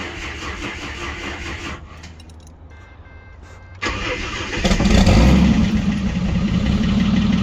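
Ford AU Falcon engine, newly fitted with a turbo, cranked on the starter for about two seconds, then cranked again. About four to five seconds in it fires and runs loudly.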